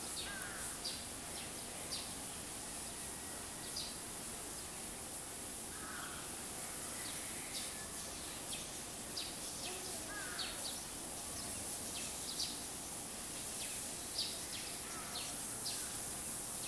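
Outdoor ambience: a steady high hiss with small birds chirping in the background, brief high chirps every second or so and a few short whistled calls.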